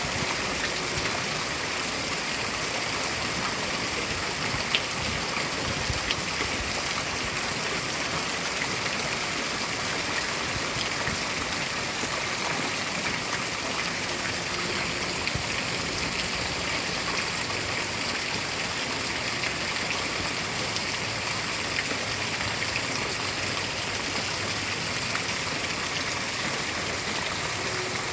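Steady, even rainfall, with a few faint drop ticks now and then.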